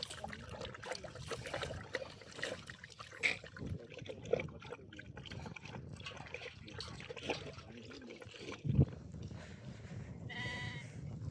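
Scattered knocks and rustling, with a loud thump about nine seconds in, then a single short animal call near the end.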